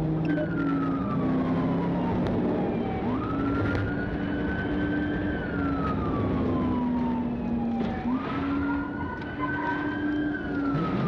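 Police siren wailing: its pitch slides slowly down, then sweeps quickly back up, twice. Under it runs steady engine and road noise from the pursuing vehicle.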